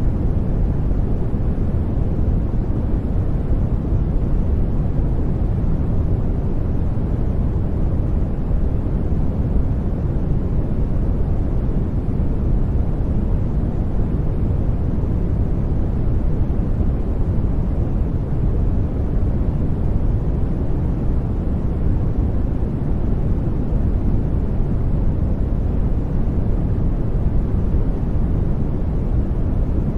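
Steady generated noise, even and unchanging, with its weight in the low end: a deep, rushing hiss with much more bass than treble.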